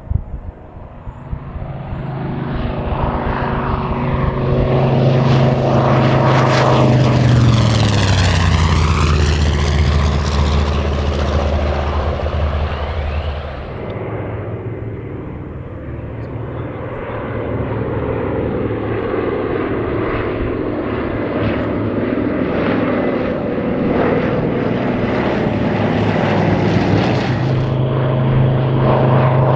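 Grumman TBM Avenger's Wright R-2600 twin-row radial engine on a flyby. The sound builds as it approaches, its pitch drops as it passes about eight seconds in, and then it fades away. The engine grows louder again near the end as it comes back around.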